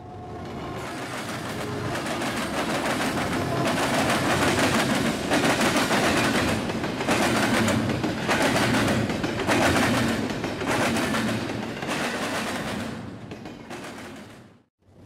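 Double-stack container train passing close by, its steel wheels rapid-clattering and banging over the rails, with louder runs of bangs about once a second. The sound fades in at the start and cuts off suddenly near the end.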